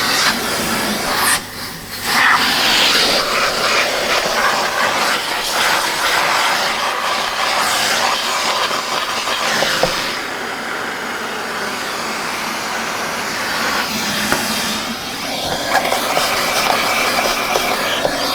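Vacuum cleaner running with a dusting brush attachment, a loud rushing suction hiss that shifts as the brush is worked over a metal part to pull out remaining dust. The hiss dips briefly about a second and a half in and softens for a stretch in the middle.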